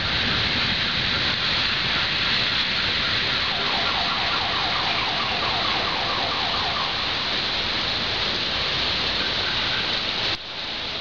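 Steady rain shower, a dense hiss of falling rain. For a few seconds in the middle a faint siren warbles rapidly behind it. Near the end the sound cuts suddenly to quieter rain.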